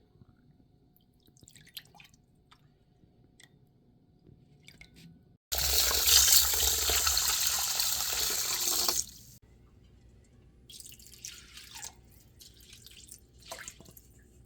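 Water running for about three and a half seconds, starting and stopping suddenly, with small clicks and knocks before and after.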